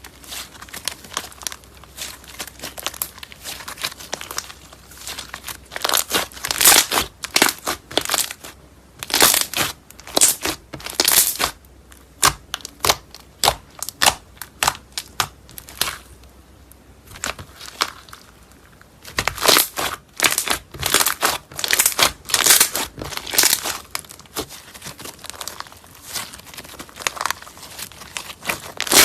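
Slime being squeezed and poked, giving quick clusters of sharp crackles and pops, with a quieter stretch about two-thirds of the way through.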